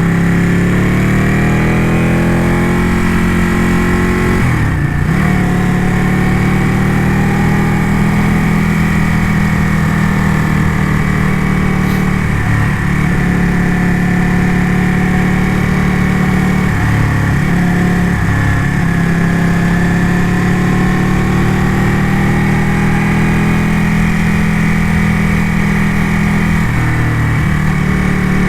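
Ducati motorcycle engine running under way, its pitch slowly rising and falling with the throttle and dipping briefly a few times.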